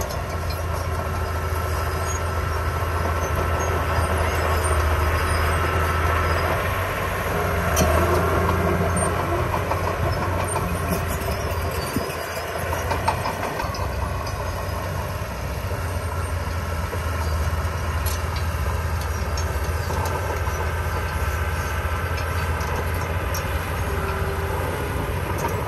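Heavy diesel earthmoving machine running steadily, with a deep engine hum and light clanking; the engine briefly eases off about halfway through.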